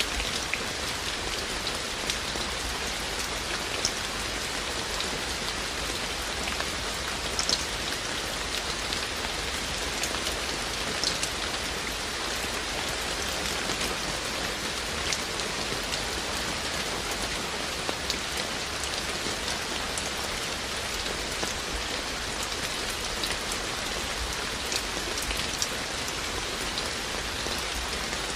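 Steady rain falling, with scattered sharper drips ticking on a surface.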